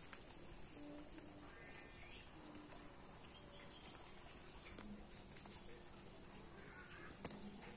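Faint bird calls over a quiet outdoor background: a few short, low steady calls and some brief high chirps.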